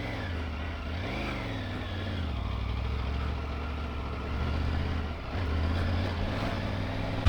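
Triumph Tiger 900 Rally Pro's three-cylinder engine running at low revs, with a short rise and fall in pitch about a second in.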